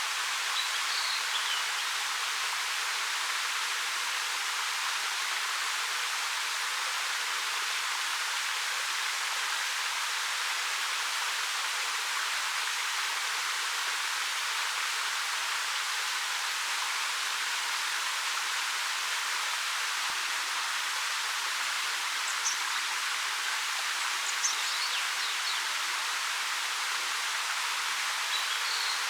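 Steady, unbroken rush of a 13 m waterfall pouring over a rock face, with a few brief high chirps about a second in and again near the end.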